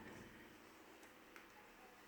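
Near silence: faint room tone with a low steady hum and a couple of small ticks about a second in.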